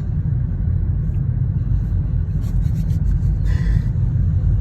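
Steady low rumble of a moving car, road and engine noise heard from inside the vehicle.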